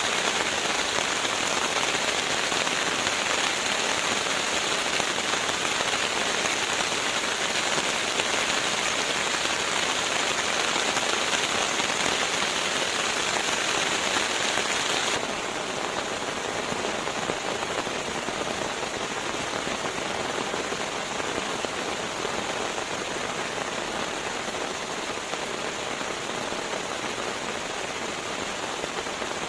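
Steady, even hiss of rain falling on a surface. About halfway through, the sound abruptly becomes a little quieter and duller, as though the rain has shifted or the recording has been cut.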